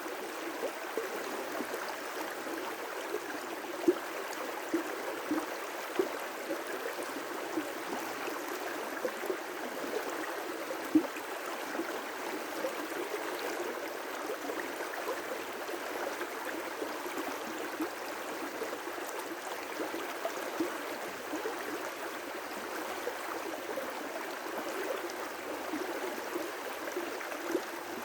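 River rapids rushing steadily, with many small splashes and gurgles of water over rocks and a couple of sharper splashes.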